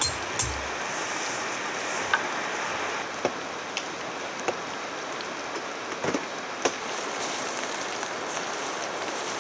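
Steady rain falling, with scattered louder drops ticking at irregular intervals.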